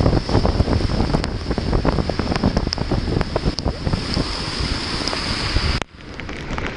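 Wind and heavy rain striking the microphone while riding a motorcycle through a downpour: a loud, steady rush scattered with sharp ticks from raindrops hitting the mic. The noise cuts out abruptly near the end, then returns more quietly.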